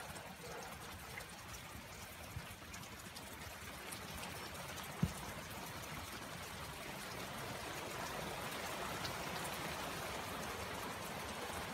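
Steady rain falling and trickling, an even hiss that grows a little louder in the second half, with a single sharp knock about five seconds in.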